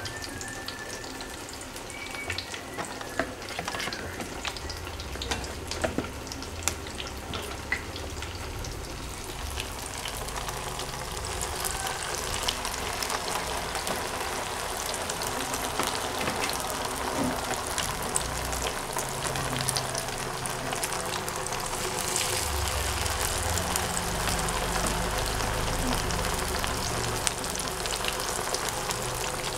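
Batter-coated slices of menjes (tofu-dregs cake) deep-frying in hot oil: a steady sizzle full of small crackles, which grows louder and denser about ten seconds in.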